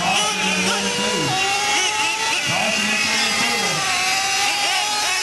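Several small nitro engines of 1/8-scale-style RC monster trucks running together at high revs, their pitches rising and falling and overlapping as the trucks throttle on and off around the oval.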